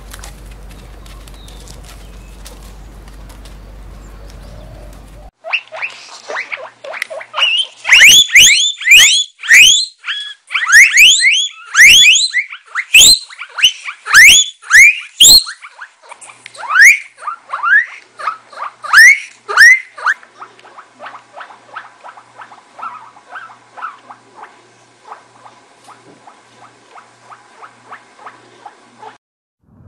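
Guinea pigs squealing (wheeking): a run of loud, short, upward-sweeping squeals about two a second, giving way after the squeals to fainter, quick, evenly spaced calls.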